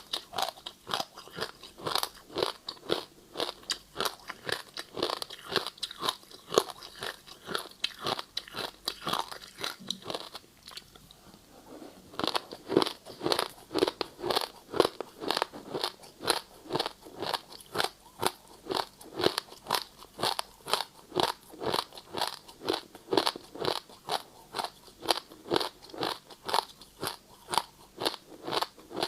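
Ice being bitten and chewed: a steady run of crisp crunches, about two to three a second, with a brief pause a little after ten seconds in.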